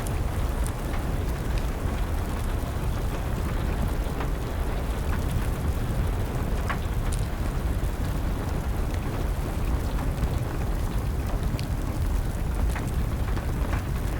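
Steady rain with a wood fire crackling, a few scattered sharp pops over an even low rush.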